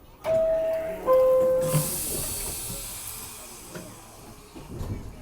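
R62A subway car's two-tone door chime, a higher tone and then a lower one, each under a second. A loud burst of air hiss from the train follows and fades away over a few seconds.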